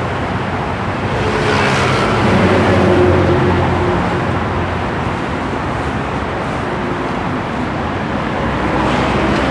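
Road traffic: motor vehicles going past in a continuous rush, one swelling louder about two to three seconds in.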